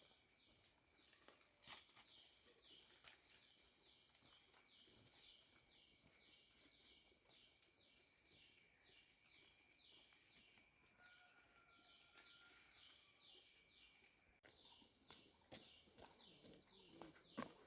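Faint outdoor ambience: a high, falling chirp repeated about twice a second over a steady high drone of calling animals, with a few soft clicks.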